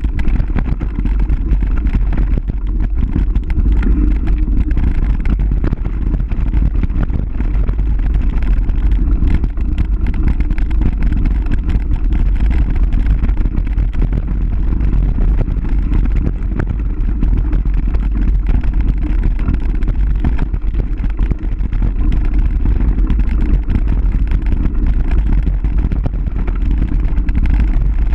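Loud, steady wind buffeting on the microphone during a fast downhill ride, a deep rumble with a continuous light rattle mixed in.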